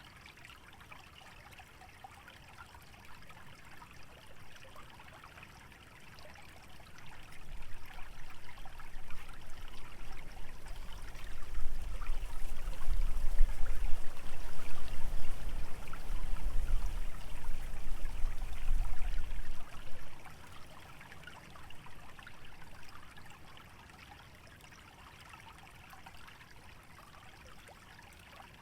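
Shallow stream trickling steadily. A gust of wind builds about a quarter of the way in, rumbling on the microphone and rustling dry vegetation, and dies away about two-thirds of the way through.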